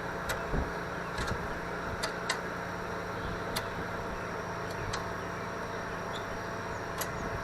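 Scattered small clicks and taps of a bolt and metal bracket being handled and fitted by hand, about eight light ticks spread irregularly over a steady background hum.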